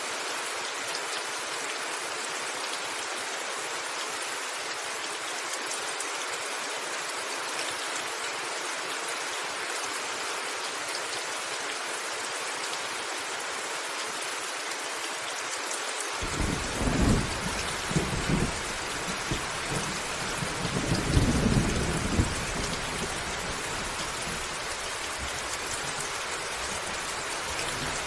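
Steady rain falling on a roof, an even hiss throughout. A little over halfway through, a thunder rumble rolls in, swelling several times before it softens.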